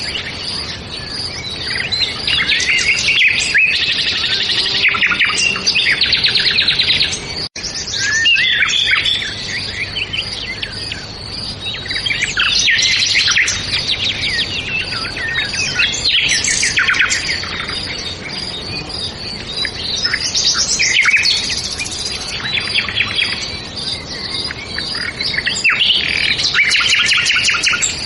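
A dawn-chorus-like mix of several songbirds chirping and trilling over one another without pause, with a momentary cut-out about seven and a half seconds in.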